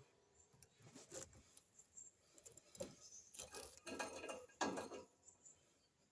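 Faint, irregular light taps and rustles, denser a little past the middle.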